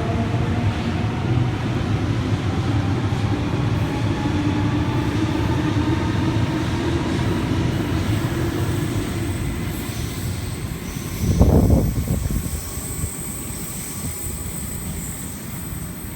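Electric suburban train running through an underground station, with a steady rumble and faint motor whine that slowly fades. About eleven seconds in there is a short loud rush of noise.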